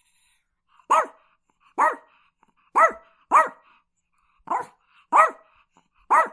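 Chihuahua barking: seven short, high barks at irregular intervals of about a second, each rising and falling quickly in pitch.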